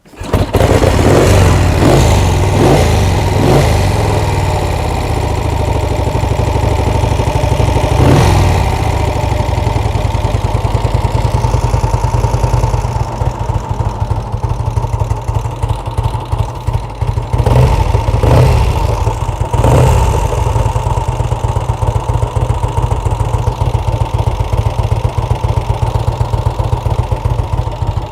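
1952 Vincent Black Shadow's 998 cc 50° OHV V-twin catching and running. It is blipped several times in the first few seconds, again about eight seconds in and a few more times around eighteen to twenty seconds in, then settles to a steady idle.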